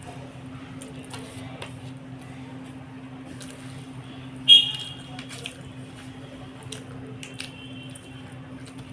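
Close-up eating sounds of rice and egg curry: wet squishing and scattered small mouth clicks over a steady low hum. A louder, sharp click with a brief high ring comes about four and a half seconds in.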